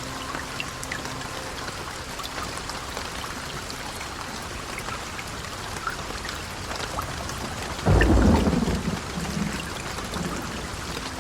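Heavy rain falling steadily, with one sudden loud thunderclap about eight seconds in that rolls off into a rumble over the next two seconds.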